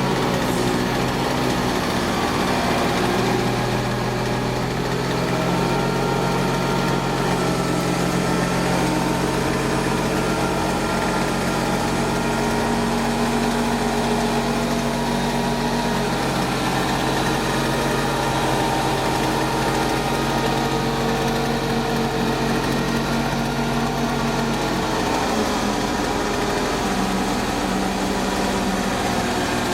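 Engine running steadily, its pitch shifting a few times.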